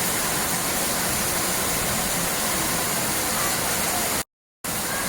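Steady rushing noise of flowing water, broken by a brief gap of silence about four seconds in.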